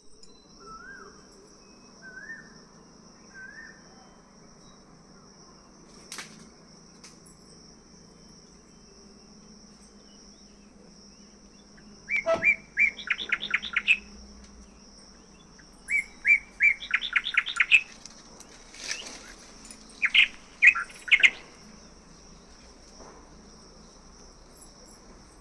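Birds calling outdoors. Three short rising calls come near the start, then loud bursts of rapid repeated chirps about halfway through and twice more after, over a steady high-pitched insect drone.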